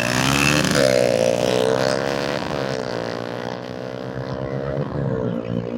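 Motorcycle engine accelerating hard, its pitch climbing and then dropping sharply at gear changes about two and a half and five seconds in.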